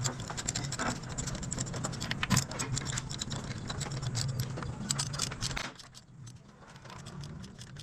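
Toyota Altis 1.6 engine idling roughly, with metallic clicks and rattles over it; the engine noise stops about six seconds in. The rough idle comes from failing ignition coils, two of them dead and two misfiring.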